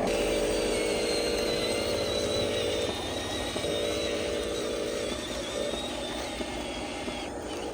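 Small electric motors and plastic gearboxes of a radio-controlled construction model whining as they run, with a high thin whine over a lower hum. The hum stops for a moment about three seconds in, then runs again briefly.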